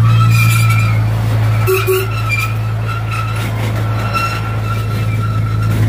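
A small tourist train running steadily, its engine giving a loud, even low hum with a steady high whine over it.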